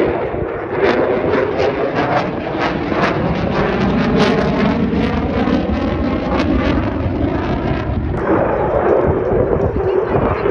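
Military jet engine noise as a fighter flies past: loud and crackling, with a shifting phasing swoosh, easing briefly about eight seconds in and then building again.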